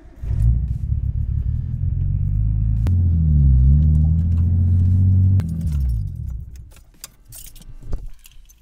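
Nissan Skyline R32's turbocharged RB straight-six starting up and running, with a brief rev around three seconds in. It is switched off about six seconds in, and the keys jangle in the ignition afterwards. The engine still has the misfire that new coil packs and a wiring harness are meant to cure.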